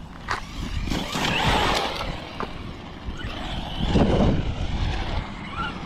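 Electric RC stadium truck with a brushless motor being driven: surges of motor and tyre noise about a second in and again about four seconds in, over a steady low rumble.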